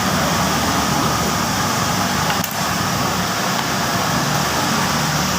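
Steady, loud rushing background noise with no clear rhythm, and a single faint click about two and a half seconds in.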